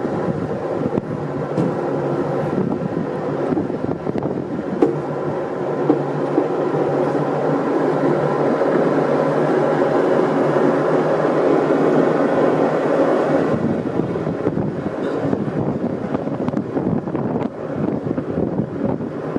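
Canal tour boat's engine running with a steady drone, its tone turning duller about two-thirds of the way through.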